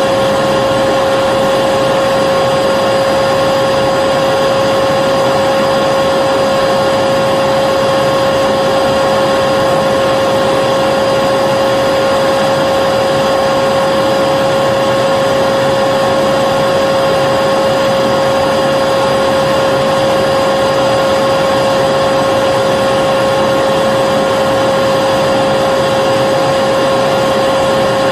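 Vacuum cleaner running steadily, a constant motor whine over a rushing airflow, with no change in pitch or level.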